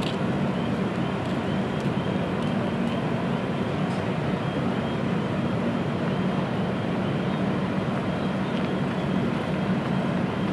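Steady low mechanical hum from a halted passenger train, with faint high ticks repeating at an even pace.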